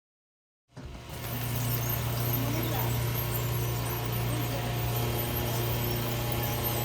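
Portable sawmill's engine running steadily at a constant pitch, coming in abruptly after silence about a second in.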